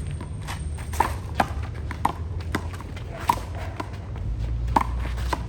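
Handball rally: a rubber handball slapped by hand and smacking off the wall, sharp single cracks at irregular half-second to one-second gaps. A low rumble comes in about four seconds in.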